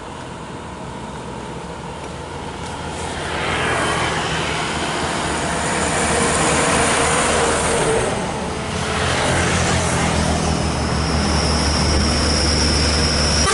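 Large road vehicles passing close by. Engine and tyre noise swells from about three seconds in and dips briefly past the middle, then a second vehicle's low engine drone builds toward the end.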